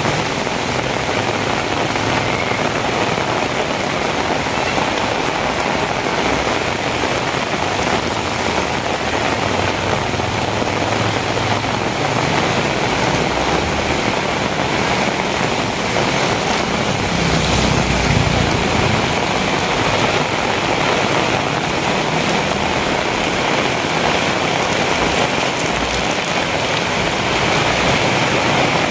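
Heavy rain pouring steadily, a dense even hiss. A low rumble swells briefly a little over halfway through.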